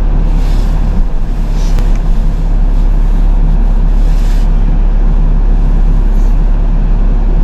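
Tow truck engine idling steadily, a low, even hum.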